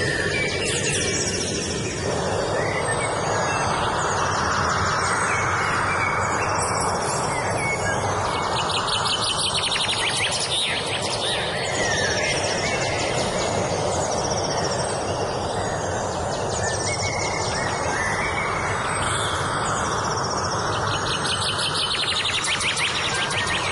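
Songbirds chirping and singing rapid trills again and again, over a steady rushing background noise.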